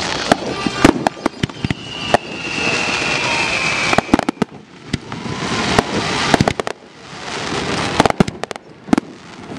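Aerial fireworks going off: many sharp bangs of bursting shells with crackling between them, and a whistling firework whose tone glides slightly down between about two and four seconds in.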